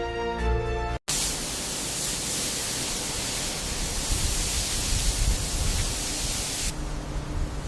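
Music breaks off abruptly about a second in. A steady, loud hiss of rushing noise follows and eases to a lower rush near the end.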